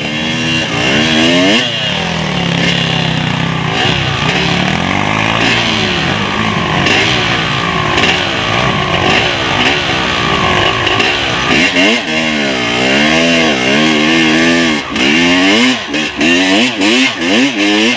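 Motocross dirt bike engines revving, the pitch climbing and dropping again and again with gear changes and throttle. It runs steadier through the middle, then rises and falls quickly over and over in the last several seconds.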